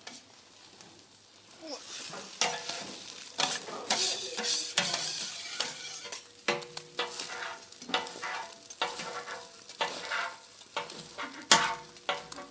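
Metal spatula scraping and knocking on a flat jianbing griddle in many short strokes with a faint metallic ring, over a light sizzle of the crepe frying.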